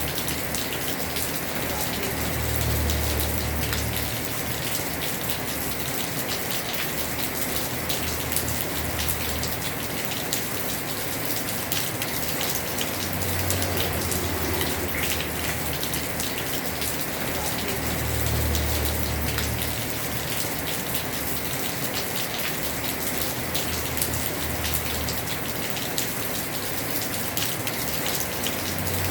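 Heavy rain falling steadily on a house roof, a dense patter of drops, with a low rumble that swells and fades several times.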